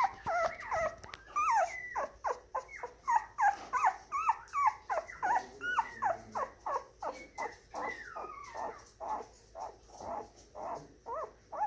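Moyen poodle puppy whining in a rapid string of short, high-pitched cries, each sliding down in pitch, about two to four a second.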